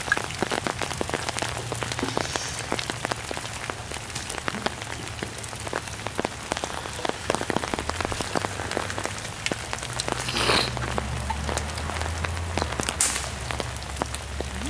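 Rain falling in woodland: dense, irregular ticking and pattering of drops on leaves, over a steady low rumble, with a short hiss about ten seconds in.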